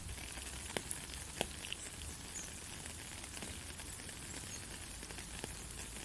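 Steady heavy rain, an even hiss, with a few sharper drops landing close by: two about a second in and one near the end.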